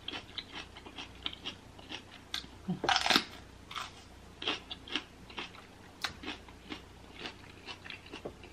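Close-up eating sounds: a loud, crunchy bite about three seconds in, with chewing and small wet mouth clicks and smacks before and after.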